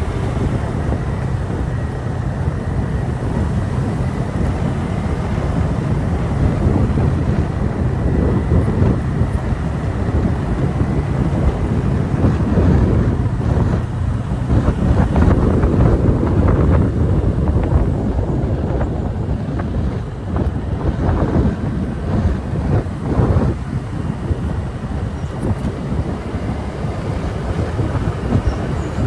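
Motorbike riding along, its engine running under a dense, steady rumble of wind buffeting the microphone.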